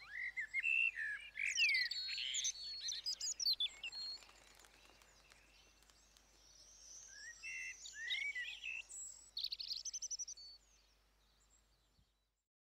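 Birds chirping and singing over a faint outdoor ambience, in two busy bouts of song, then dying away and cutting off suddenly near the end.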